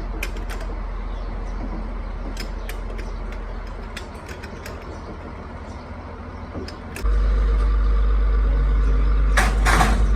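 Scattered sharp metallic clicks and taps. About seven seconds in, a motor starts abruptly and runs with a steady low drone, and a short burst of hiss comes near the end.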